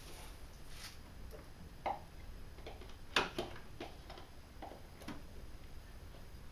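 Irregular light clicks and taps, with a louder sharp knock a little after three seconds in, from handling an oil-additive bottle during a top-up of the engine oil.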